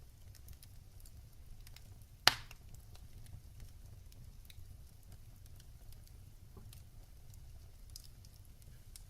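Wood fire in a fireplace crackling: a steady low rumble of flames with scattered small pops and one loud sharp crack a little over two seconds in.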